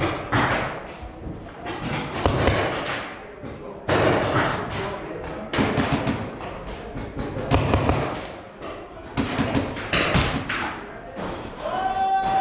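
Paintball markers firing and paintballs smacking against walls: a run of sharp thuds and cracks at irregular intervals, mixed with distant shouting.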